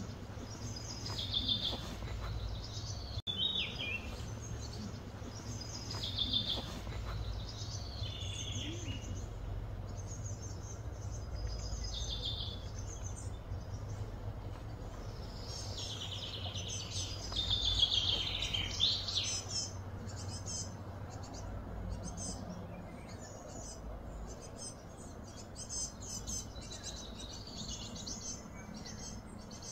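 Birds chirping outdoors, short high calls repeating every second or two over a steady low hum. In the last third the calls give way to a faster, buzzy trilling.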